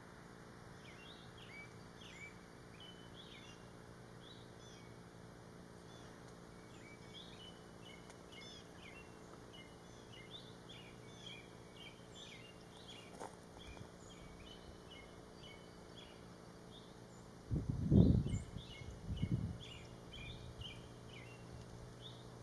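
Birds chirping over and over, short high calls scattered throughout. A few loud low rumbles come in a cluster about three-quarters of the way through.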